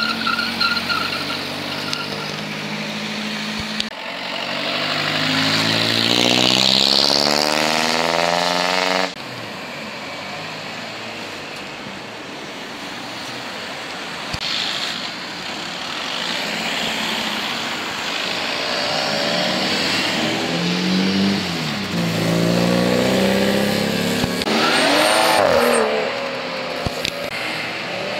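Modified cars accelerating away one after another, their engines revving hard with the pitch climbing. One long run-up ends in a sudden cut about nine seconds in, and more cars rev up near the end.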